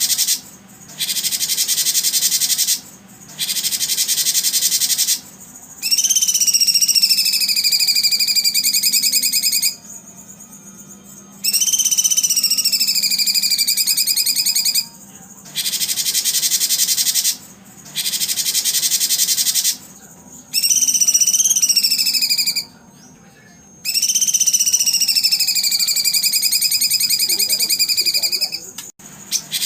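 Songbird-training recording: a high, rapidly pulsed trill repeats in bursts of about two seconds with short gaps. Four times it is overlaid by a long whistled bird call that dips and rises in pitch.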